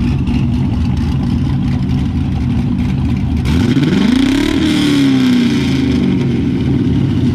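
Straight-piped LS V8 idling, revved once about three and a half seconds in, the pitch climbing and then falling back to idle.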